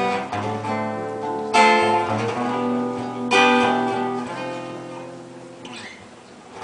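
Guitar playing the closing chords of the song after the final sung line, with two strong strums about two seconds apart, the last left to ring and fade away.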